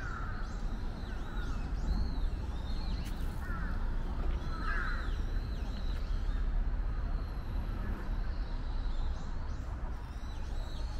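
Birds calling outdoors, several short calls in the first five seconds and more scattered after, over a steady low rumble and a thin, steady high tone.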